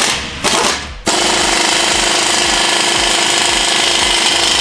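Air impact wrench hammering: two short bursts, then a steady run from about a second in that cuts off abruptly.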